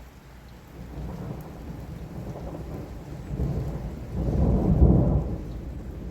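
Rolling thunder over steady heavy rain: a deep rumble builds about a second in, grows loudest a little past the middle, then fades.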